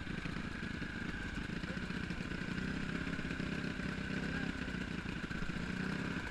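Motocross bike engine running at a fairly steady pitch.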